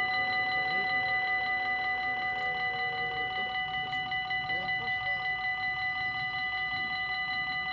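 Dutch level-crossing electronic bell ringing in a rapid, even, steady pulse of several bright tones, signalling that the barriers are closing for an approaching train.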